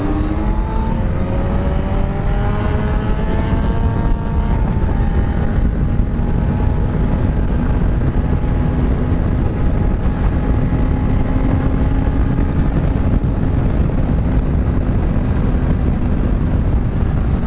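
Kawasaki Z900's inline-four engine under way, its pitch climbing for about four seconds as it accelerates, then a gear change and a steady cruise. Wind rushes over the microphone throughout.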